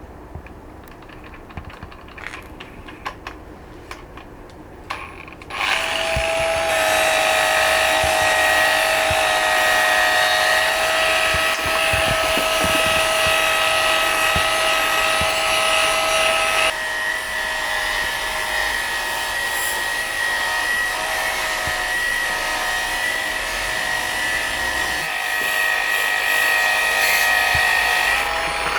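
Handheld electric power tool working the stone: after a few light clicks of handling, the motor starts about five seconds in and runs with a steady whine, its note shifting about two-thirds of the way through, then stops right at the end.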